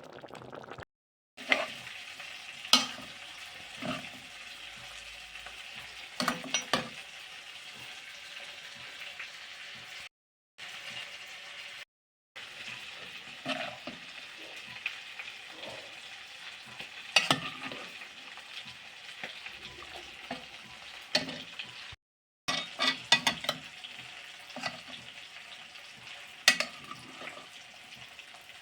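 Food sizzling steadily in a hot pan while a spatula stirs it, knocking and scraping against the pan every second or two. The sound drops out completely for a moment four times.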